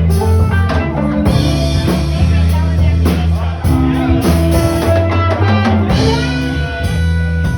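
Live band playing a rock song: guitar chords over held bass notes, with a drum kit keeping time.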